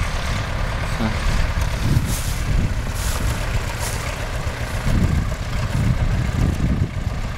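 MTZ-5LS tractor's diesel engine running under load while it drives a hay baler, a steady low rumble with the baler's machinery working.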